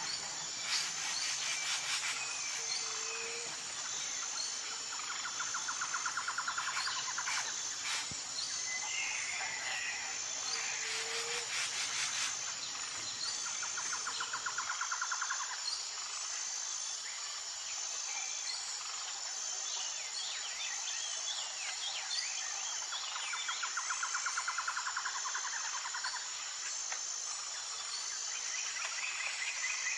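Insects and birds: a steady, high-pitched insect chorus with an even pulse, scattered bird chirps, and a rapid trill that repeats every four or five seconds. A low hum underneath stops about halfway through.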